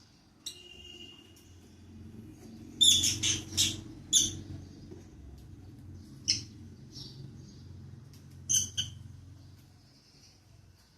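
Pet lovebirds chirping in short, sharp, high-pitched calls. A quick run of several chirps comes about three seconds in, then single chirps around six and seven seconds and a close pair near nine seconds, over a faint low hum.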